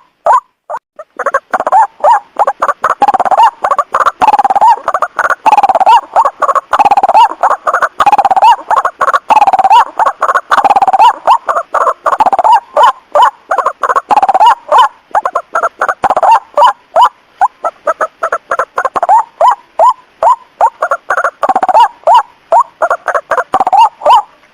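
White-breasted waterhen calls used as a lure: a loud, unbroken run of harsh, rapidly repeated croaking notes, several a second, thickening about a second in.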